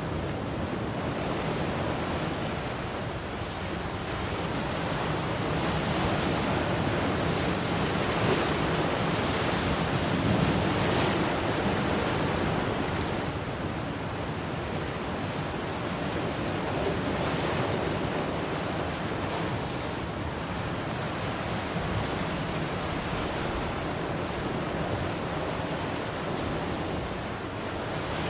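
Ocean surf: waves breaking and washing in continuously, swelling and easing every several seconds, with some wind.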